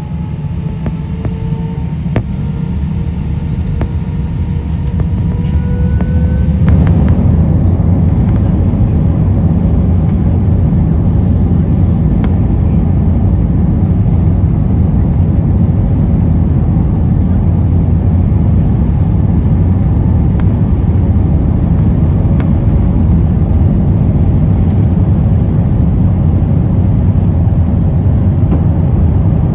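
Jet airliner engines heard from inside the cabin: a rising whine as they spool up, then about seven seconds in the sound jumps to a loud, steady rumble as takeoff thrust is set for the takeoff roll.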